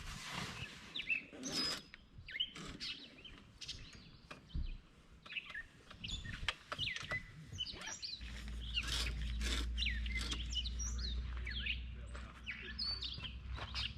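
Small birds chirping and calling in quick, varied notes, with scattered light clicks. About eight seconds in, a low rumble comes in and fades out a few seconds later.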